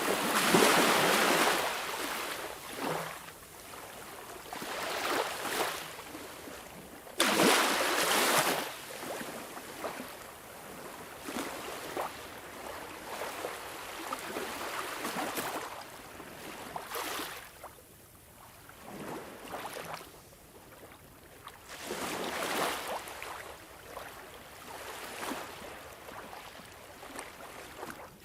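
Ocean waves breaking and washing back, each wave a rush of noise that swells and fades; the biggest come right at the start and about seven seconds in, with smaller ones between.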